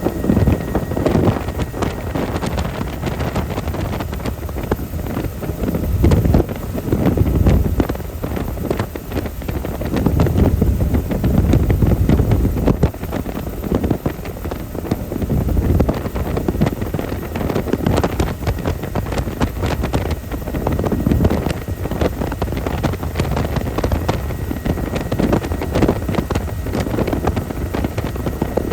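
Helicopter in flight: continuous rotor and engine noise, with uneven gusts of wind buffeting the microphone.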